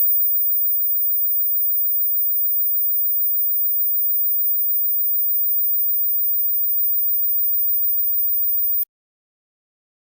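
A steady, very high-pitched pure electronic tone near the upper limit of hearing. It holds one pitch and level, then cuts off abruptly about nine seconds in.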